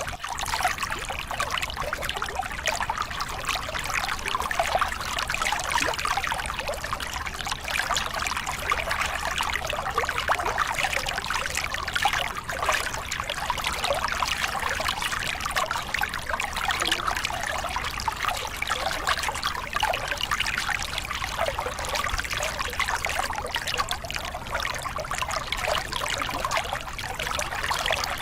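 Small river cascade: water pouring and splashing over rocks in a steady rush, full of fine splashes.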